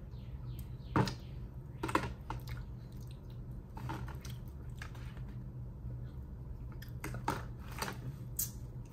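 Mouth sounds of eating fried chicken: chewing and biting, with several sharp crunchy clicks, over a steady low hum.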